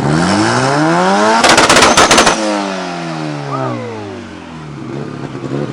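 A race car's engine revving hard and climbing in pitch, then hitting the rev limiter with a rapid burst of bangs for about a second. The revs then fall away and the engine sound fades.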